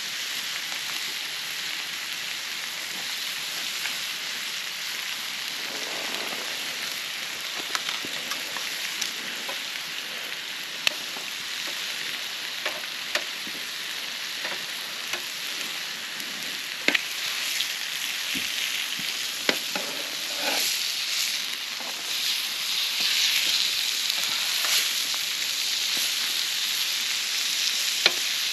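Thick burger patties sizzling on a barbecue hotplate, a steady hiss with scattered sharp pops. The sizzle grows louder in the last third.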